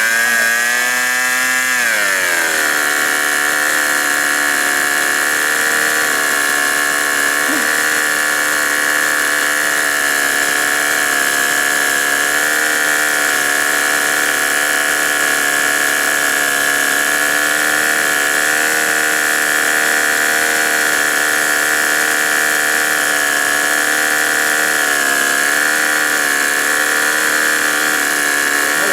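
G-Mark five-cylinder radial model-airplane engine running at high speed; its pitch rises briefly, dips about two seconds in, then holds steady with slight wavering.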